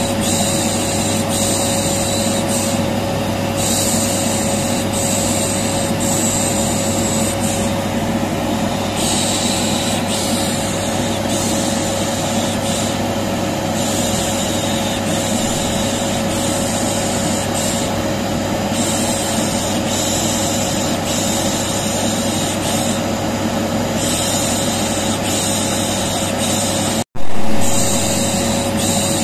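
Vacuum cleaner running steadily with a constant hum and whine, overlaid with repeated soft "shh" shushing that comes and goes every second or so. About 27 seconds in, the sound cuts out for a split second and comes back with a brief loud burst as the loop restarts.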